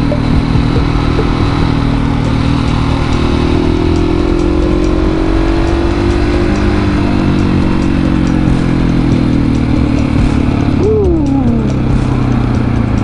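Husqvarna 701 supermoto's single-cylinder engine pulling through curves, its revs rising and easing, under heavy wind noise. About eleven seconds in the revs fall away quickly.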